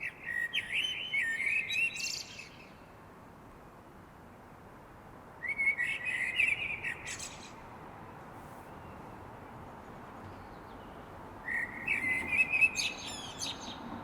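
A songbird singing three separate phrases of warbling song, each about two seconds long and a few seconds apart, with higher twittering notes at the end of each phrase.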